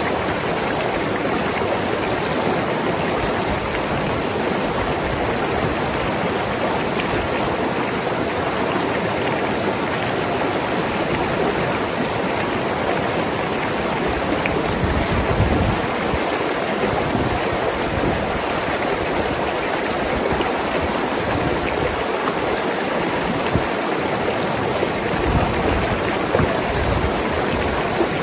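Mountain river flowing and gurgling over rocks: a steady rush of water.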